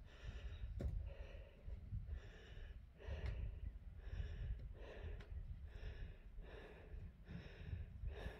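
Rhythmic heavy breathing, about two breaths a second, with a low rumble underneath.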